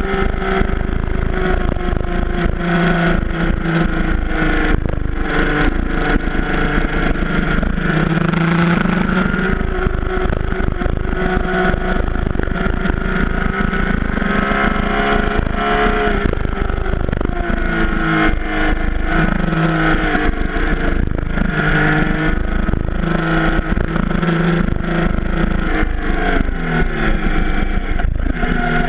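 Yamaha FJ-09's 847 cc inline-three engine pulling hard through the gears, its pitch climbing and dropping again and again with upshifts and braking, over a heavy low wind rumble on the microphone.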